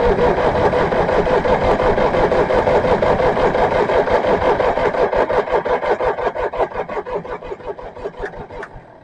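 Starter motor cranking the International 2400 tractor's engine after years of sitting, in a steady pulsing rhythm with no firing: it turns over but does not start. The cranking weakens and slows in the last few seconds and stops near the end.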